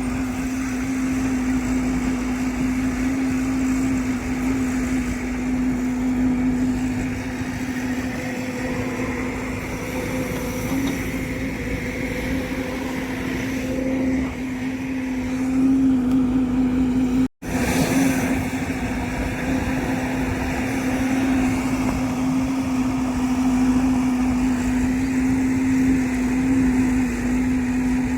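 Heavy vehicle engine running steadily with an even hum. The sound cuts out completely for a split second about seventeen seconds in.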